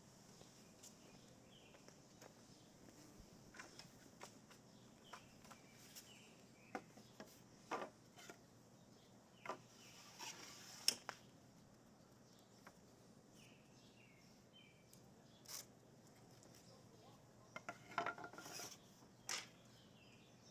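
Quiet, scattered small clicks, taps and a brief scrape of hand work, loudest about halfway through and again near the end, with faint bird chirps in the background.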